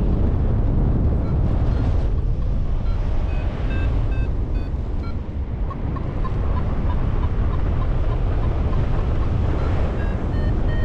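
Strong wind buffeting the microphone in flight, a heavy steady rumble. Faint short electronic beeps, typical of a flight variometer, come and go over it, with a quick run of chirps midway and steady beeps near the end.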